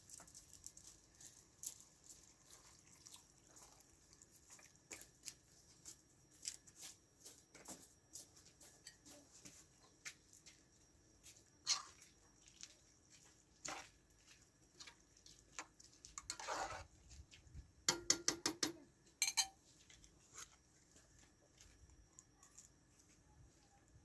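Scattered soft clicks and taps with a brief rustle, then a quick rattle of rapid clicks about eighteen seconds in, the loudest moment.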